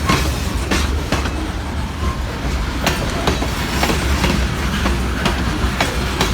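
Railroad cars rolling past with a steady low rumble, their wheels clacking over rail joints, the clacks often coming in pairs as each truck's two axles cross a joint.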